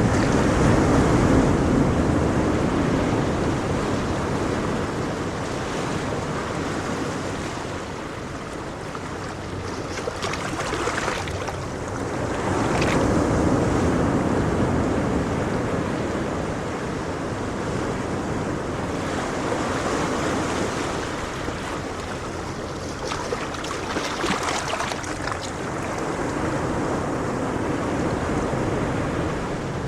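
Ocean waves breaking and washing ashore, the surf swelling and easing in slow surges about every ten seconds, each break followed by a hiss of foam.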